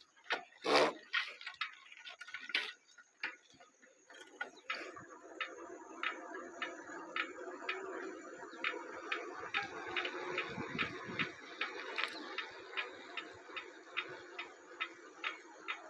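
A bike in need of maintenance, clicking mechanically: a few irregular knocks at first, the loudest about a second in, then an even ticking, about two and a half clicks a second, over a low steady hum.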